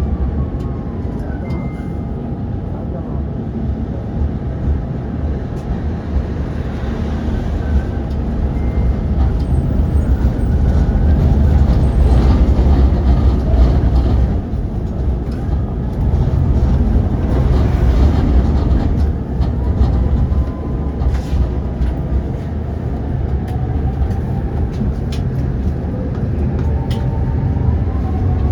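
Prague tram running along its rails: a steady low rumble that swells in the middle, with a faint whine that glides up and down in pitch as it speeds up and slows.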